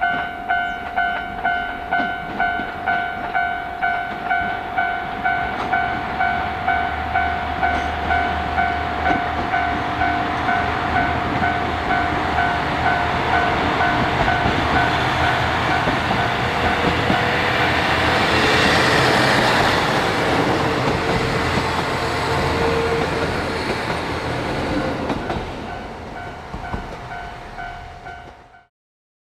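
Level-crossing warning bell dinging about twice a second while a diesel train approaches and passes, its engine and wheel noise growing to a peak about two-thirds through and then fading. The sound cuts off abruptly near the end.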